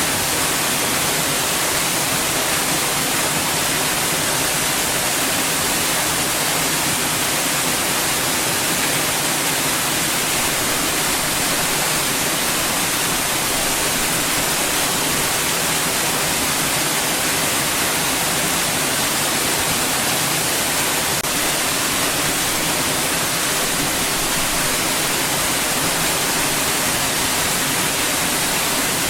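Steady white noise: an even, unbroken hiss across the whole range, brightest in the highs.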